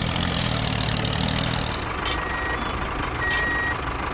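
A vehicle engine idling steadily, with a low hum most prominent in the first two seconds. Two short high beeps come about two and three seconds in.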